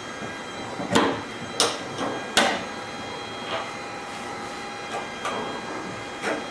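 A series of sharp knocks or clacks, about seven at uneven intervals, the three loudest close together in the first half, over a faint steady hum.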